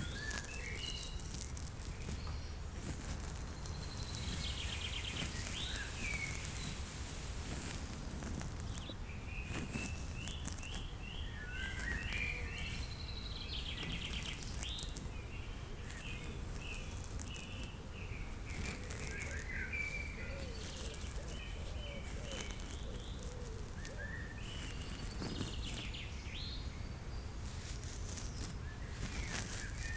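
Nature-soundscape birdsong: many small birds chirping and twittering over a steady low outdoor hum, with frequent short scratchy rustles.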